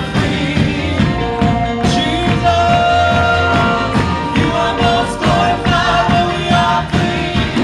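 Live praise and worship music: a band playing with singing over a steady drum beat.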